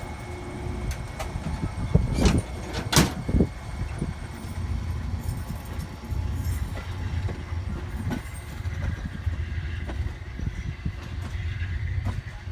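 Amtrak Adirondack passenger train running with a steady low rumble, and a few sharp knocks about two to three and a half seconds in.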